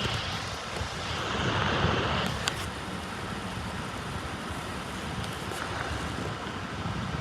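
Freight train rolling past the crossing: a steady rumble with rail and wheel noise and a few short clicks, louder in the first couple of seconds, with wind on the microphone.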